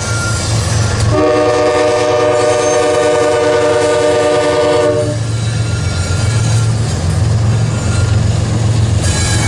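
Diesel freight locomotive's multi-chime air horn sounding one long chord, starting about a second in and cutting off about four seconds later, over the steady rumble and wheel clatter of freight trains passing.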